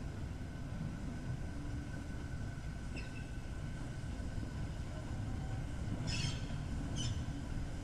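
Heritage railway train running along the track with a steady low rumble, with short high squeaks about three seconds in and twice near the end.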